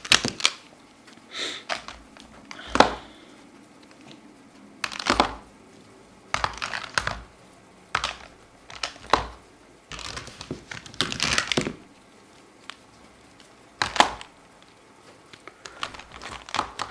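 Colouring markers at work on paper: short scratchy strokes and sharp clicks and taps, one every second or two, with a longer run of strokes about ten seconds in.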